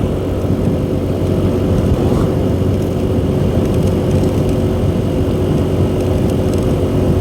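Motor vehicle driving on a road: a steady engine hum with continuous tyre and road rumble.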